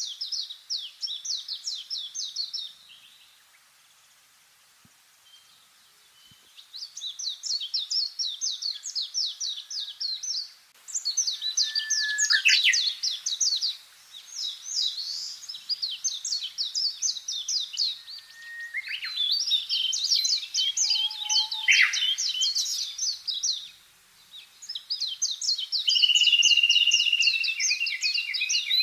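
Songbirds singing: phrases of rapid, high trilled notes a few seconds long, repeated after short pauses, with a few sharp falling whistles and a held whistle near the end.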